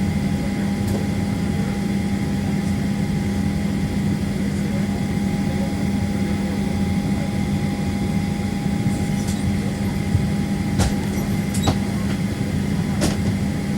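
Steady drone heard inside the cabin of a Southwest Airlines Boeing 737 before takeoff, with a constant hum and fainter higher tones. A few light clicks come near the end.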